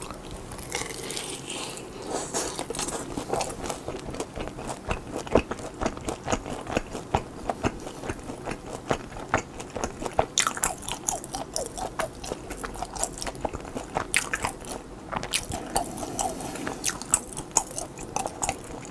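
A person chewing a bitten pan-fried hotteok dumpling close to the microphone, with crunching bites and a dense run of irregular chewing clicks.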